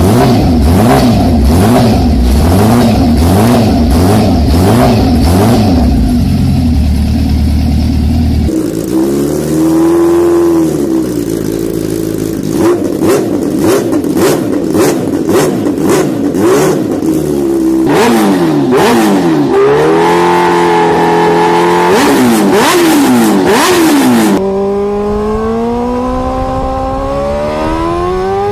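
Sports motorcycle engines accelerating hard in several cut-together clips. The engine pitch climbs and drops back several times as it shifts up through the gears, then climbs steadily near the end.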